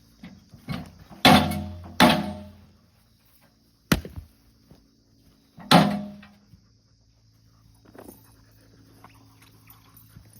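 Firewood being split by hand: four heavy strikes of a splitting tool into wood, three with a short ringing crack after the blow.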